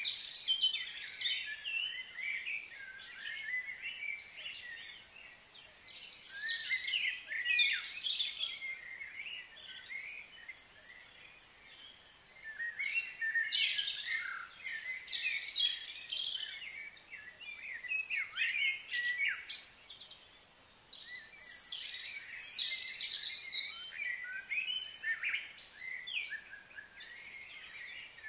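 Small birds chirping and twittering in repeated high-pitched bouts, with brief lulls between them.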